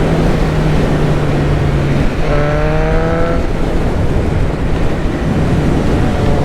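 BMW S1000R motorcycle's inline-four engine running under way, heard through heavy wind noise on the helmet microphone. About two seconds in, the engine note rises for about a second as the throttle is opened.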